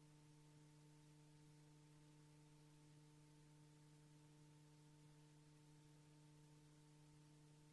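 Near silence: a faint, steady electrical hum over tape hiss, with no sound from the cars.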